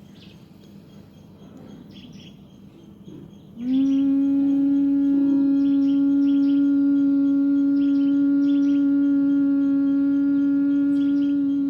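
A woman humming the bee breath of Bhramari pranayama: one steady low hum held on a single note through the exhale. It starts about three and a half seconds in, after a quiet pause for the inhale, and lasts about eight seconds.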